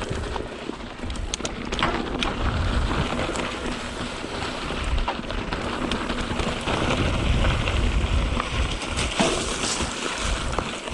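Canyon Spectral mountain bike rolling down a rough dirt trail: tyres crunching over rocks and loose dirt, with scattered clicks and rattles from the bike. Wind rumbles on the microphone throughout.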